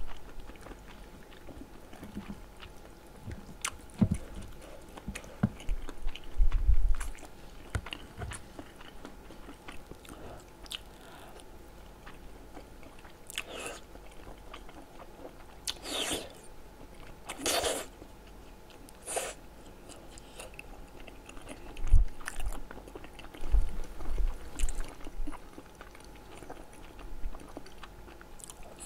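Close-miked chewing of spicy tteokbokki: soft wet chewing and mouth smacks, with a few loud slurps of noodles around the middle.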